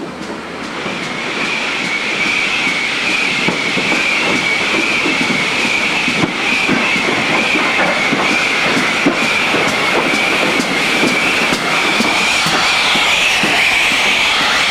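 Steam-hauled train behind 2-8-0 tank locomotive No. 4277 rolling in over the rails. A steady, slightly wavering high-pitched wheel squeal sets in about a second in and carries on over the rumble and clicking of the wheels, growing a little louder.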